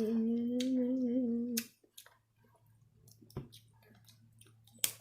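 A person hums one held "mmm" note for about a second and a half, then small clicks and mouth smacks of eating crab legs, with a sharper click near the end.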